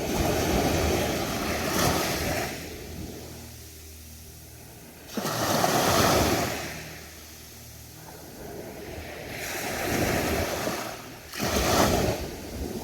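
Ocean waves breaking on a beach: four surges of surf wash in, each lasting a second or two, with quieter lulls between them.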